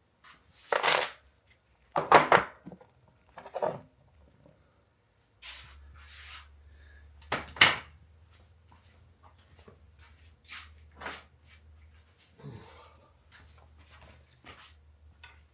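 Tools and metal parts being handled during an engine teardown: several loud clunks and clatters, then lighter knocks, with a low steady hum starting about five seconds in.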